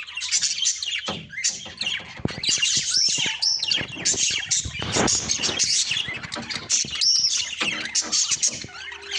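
Many small birds chirping and twittering at once, dense overlapping high calls with no pause, with scattered sharp clicks among them.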